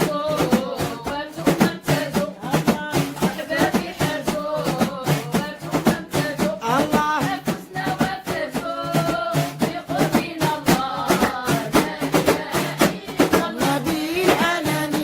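Sung Islamic dhikr chant: a voice singing a melodic devotional line over a fast, steady percussion beat.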